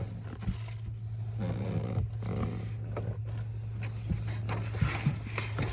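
Plastic rustling, scraping and small clicks of a pleated cabin air filter being worked into its housing behind the glove box, over a steady low hum.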